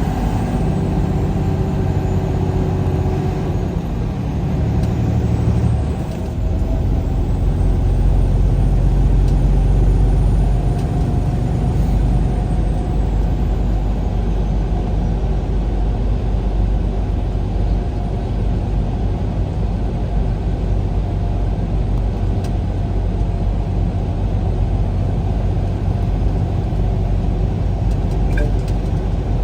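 Vehicle engine and road noise while driving, a steady low drone. The engine note changes about six seconds in.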